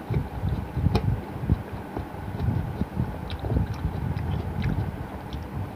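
Close-up chewing: irregular soft low thuds from the jaw, with small wet mouth clicks scattered through.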